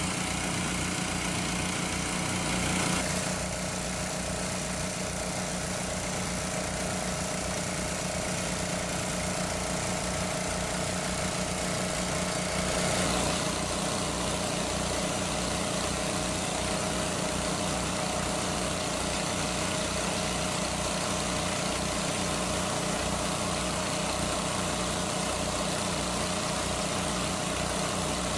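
An engine running steadily at an even speed, with slight shifts in its tone about three and thirteen seconds in.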